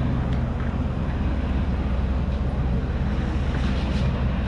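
Heavy equipment's diesel engine running steadily, a deep, even drone, with a few faint ticks over it.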